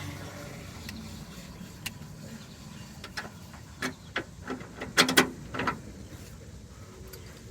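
Scattered metallic clicks and clanks from a wrench and socket working on the idler arm bolts, irregular, with the loudest cluster about five seconds in.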